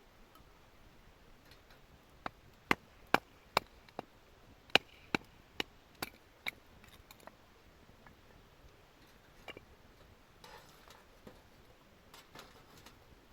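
A run of about ten sharp wooden knocks, two or three a second, stopping about six and a half seconds in: firewood being split by batoning, a knife driven through the wood with a baton. A few faint ticks follow.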